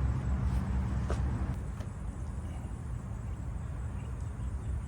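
Low, steady rumble of a running vehicle, with a few faint clicks.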